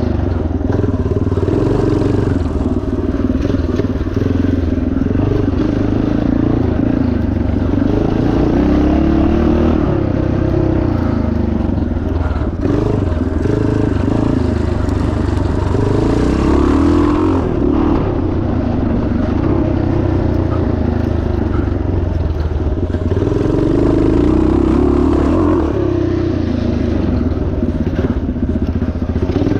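A 1977 Yamaha TT500's single-cylinder four-stroke engine running hard under race load, its note rising and falling repeatedly as the throttle opens and closes over the course.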